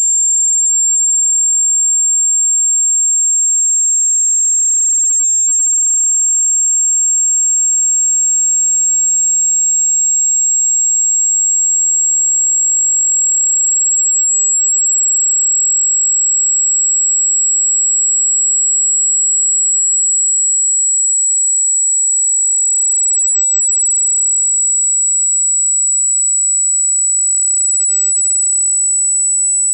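Pure sine test tone, very high-pitched and steady, gliding slowly upward. It is a speaker-cleaning tone sweep, played at full volume to vibrate water and dust out of a phone speaker grill.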